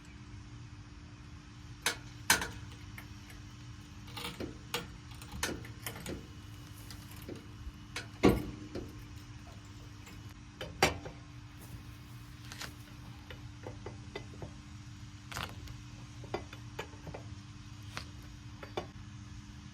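Scattered metallic clicks and clanks of tools being handled, with louder knocks about two and eight seconds in, over a steady low hum.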